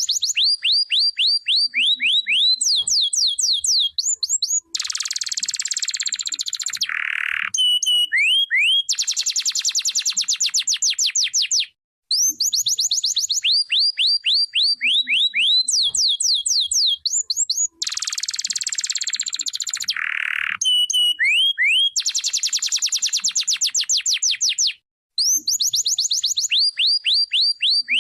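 Domestic canary singing a long song of rapid runs of falling whistled notes and fast buzzy trills. The same sequence of phrases comes twice, with a brief pause between.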